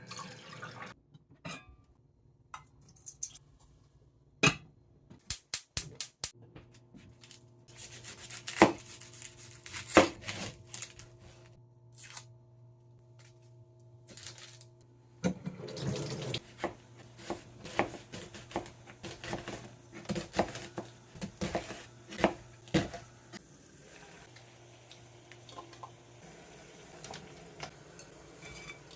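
Kitchen prep sounds: dishes and utensils clinking and knocking many times, with short stretches of running water, over a faint steady hum.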